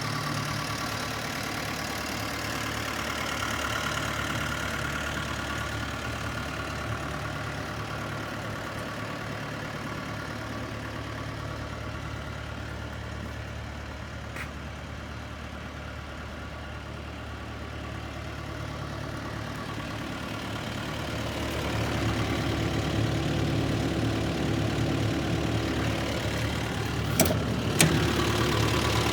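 Diesel engine of a JCB 85Z-1 midi excavator running steadily, growing louder about three quarters of the way through. Two sharp knocks sound near the end.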